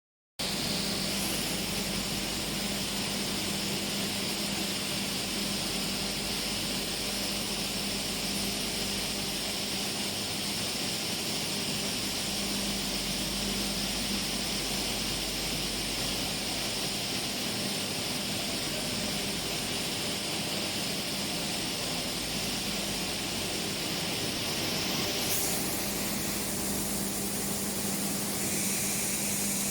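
Corn milling plant machinery running steadily: a continuous mechanical drone with a low hum and a strong high hiss. About 25 seconds in, the high hiss drops away and the sound changes character.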